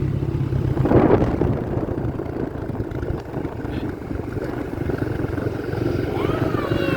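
Dirt bike engine running steadily while riding along in third gear, with a rumble of wind and road noise; a louder whoosh comes about a second in.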